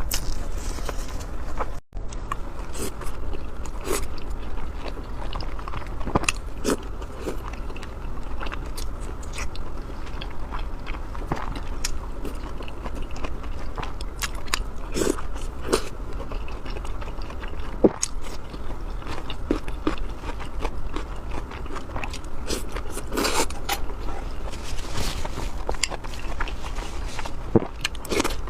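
Close-miked eating: irregular biting and chewing with small crunches and wet mouth clicks throughout, over a steady low hum, with a brief gap about two seconds in.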